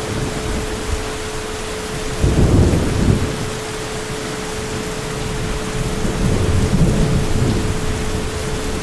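Heavy rain falling steadily in a thunderstorm. A sharp, loud thunder rumble comes about two seconds in, and a longer rolling rumble swells a few seconds later.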